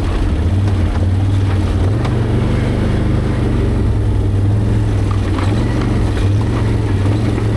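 ATV's V-twin engine running steadily under way, a loud low drone that picks up slightly about two seconds in as the throttle opens.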